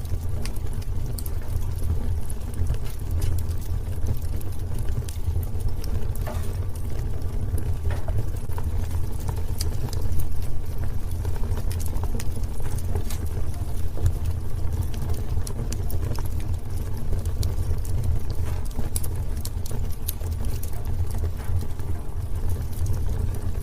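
Wood fire burning in a fireplace: irregular sharp crackles and pops scattered over a steady low rumble of the flames, a little louder about ten seconds in.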